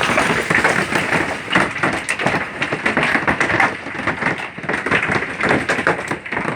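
Golf-ball-sized hail pounding down with rain, a dense, irregular clatter of hard taps and thuds.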